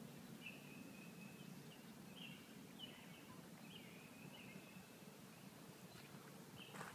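Faint, high-pitched bird calls, a string of short repeated notes over a steady low background hum.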